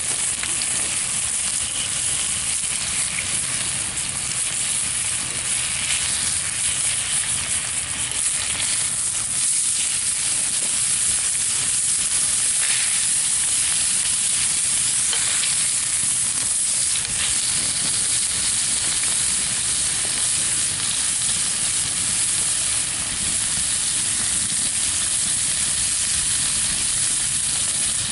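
Chicken thighs searing skin-side down on a cast iron griddle over coals, with a steady sizzle throughout.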